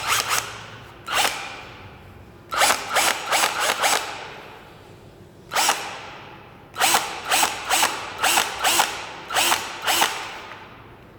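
Metal keyless (auto-lock) 13 mm ratcheting chuck of a 36V cordless drill being twisted by hand, giving sharp ratchet clicks in short runs with pauses between.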